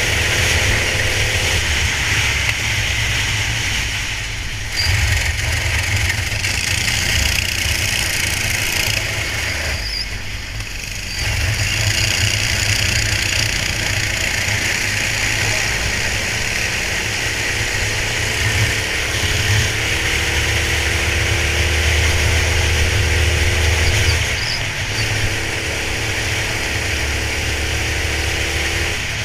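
Go-kart engine running at race speed, its note climbing and falling as the kart accelerates and slows. It drops away briefly twice, where the driver lifts off.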